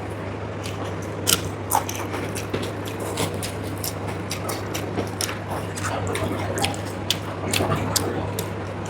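Close-miked eating of mar bhat, rice in its starchy cooking water, with curry: chewing and wet mouth sounds with many short, irregular clicks, over a steady low hum.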